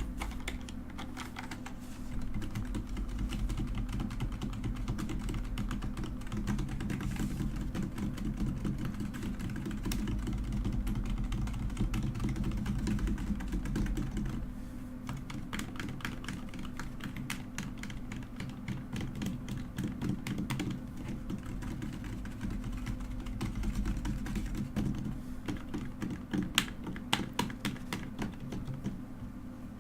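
Typing on a mechanical keyboard: fast, continuous key clacking that thins to more scattered keystrokes in the second half, with a few sharper clicks near the end.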